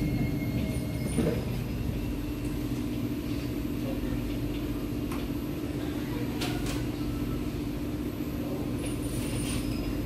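Steady low hum inside an SMRT C751B train car at a station platform. A thin high tone ends about a second in, and a few faint clicks sound over the hum.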